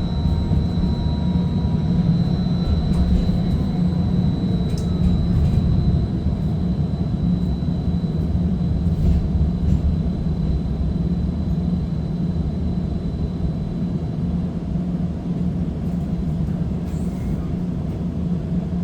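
Streetcar running between stops, heard inside the car: a steady low rumble of wheels and running gear on the rails, with a thin high-pitched tone that fades away about two-thirds of the way through and a few faint clicks.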